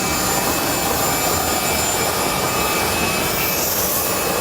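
Steady, loud jet turbine noise on an airport ramp: a dense rush with thin, high whining tones over it.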